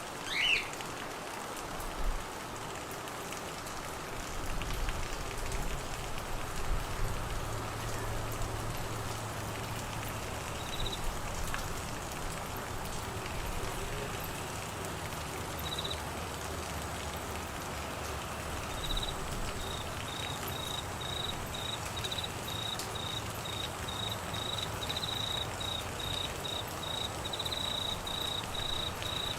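Steady rain falling as an even hiss, with two short low jolts in the first couple of seconds. From about two-thirds of the way through, a cricket chirps in a regular, high-pitched pulse of about two chirps a second.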